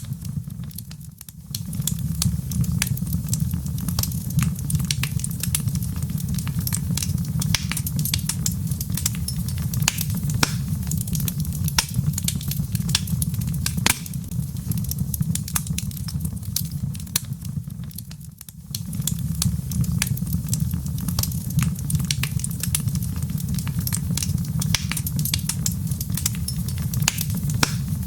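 Wood fire in a fireplace crackling, with frequent sharp, irregular pops over a steady low rumble. The sound briefly fades twice, near the start and about two-thirds of the way through.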